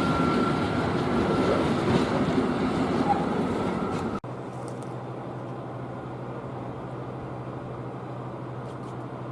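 Freight train rolling past with a steady rumble of wheels on rail and a faint wheel squeal. It cuts off suddenly about four seconds in, replaced by a quieter steady low hum.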